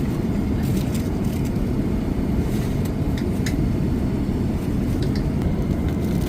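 Steady low rumble of cabin noise inside an Airbus A380 in flight, from airflow and engines, with a few faint clicks of tableware over it.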